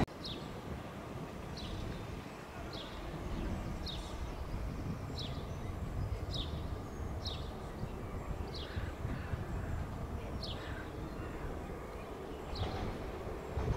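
A bird giving short, high, downward-sliding chirps about once a second, over a low steady background rumble.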